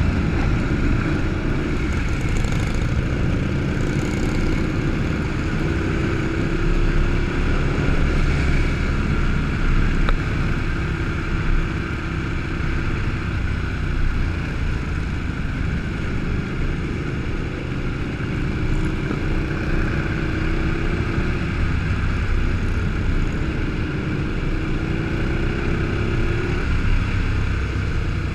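Motorcycle engines running with a steady low rumble. Several times an engine's pitch climbs as it accelerates.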